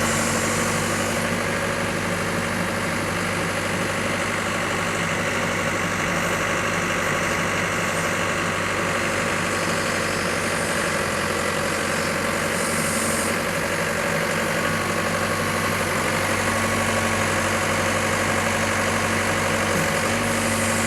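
Diesel engine of a 6-ton wheel excavator running at a steady idle, with an even low hum throughout.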